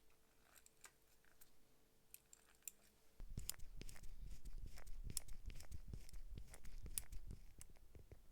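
Small sharp clicks and taps of objects being handled close to the microphone: sparse at first, then louder and much denser from about three seconds in, over a low rumble.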